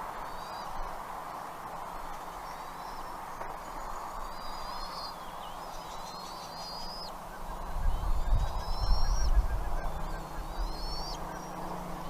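Bald eagle calling: a series of about six short, thin, high rising notes, a second or two apart, over a steady background hiss. A low rumble comes in about eight seconds in and lasts about two seconds.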